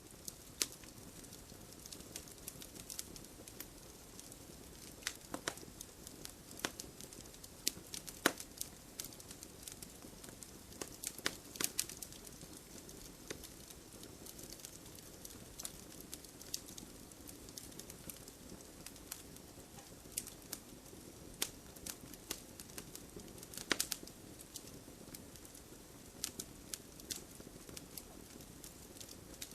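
Wood fire burning in a fireplace: logs crackling with irregular sharp pops over a soft steady hiss, a few louder pops scattered through.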